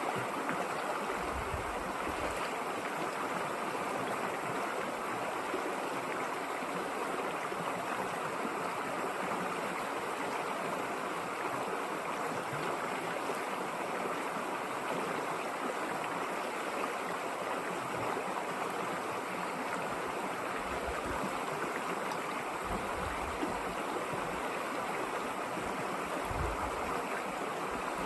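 River water flowing and rushing steadily over its bed.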